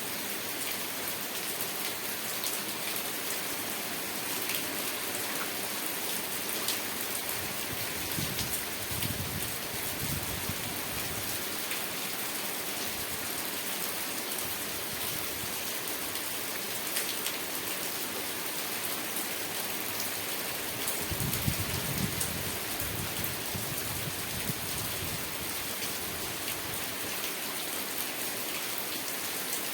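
Steady rain falling, with individual drops ticking sharply on a surface. Twice there is a brief low rumble, about eight seconds in and again about twenty-one seconds in.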